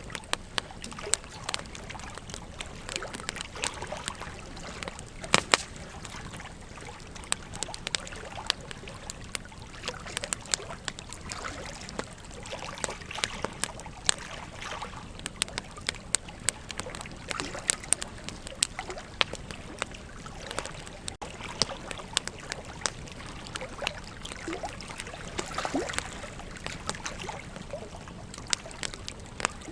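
Wood campfire crackling, with irregular sharp pops and snaps, a few louder than the rest, over the steady trickle and gurgle of a river.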